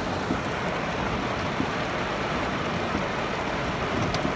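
Steady rain falling on a car, heard from inside the cabin, with a few light clicks near the end.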